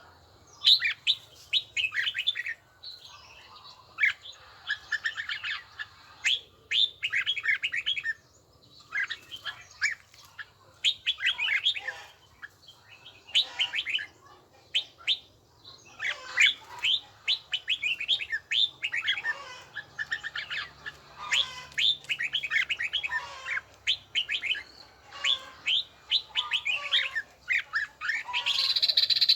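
Red-whiskered bulbul singing: bursts of quick, chirpy up-and-down whistled notes, phrase after phrase with short pauses between.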